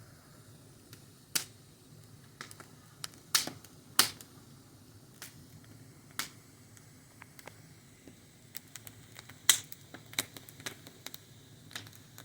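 Wood fire crackling: irregular sharp pops and snaps, a few louder ones among many small ticks, over a faint low hiss.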